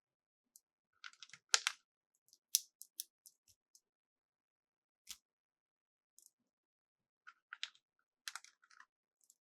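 Light clicks and taps of toy parts being handled: a quick cluster about a second in, a few sharper clicks after it, one lone tap midway, and another cluster near the end.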